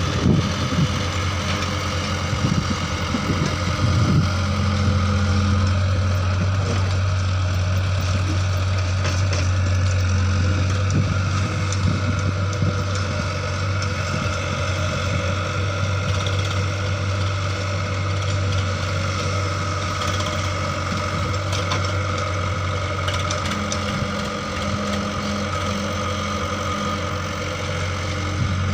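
A heavy engine running steadily at an even speed, with a few knocks in the first few seconds.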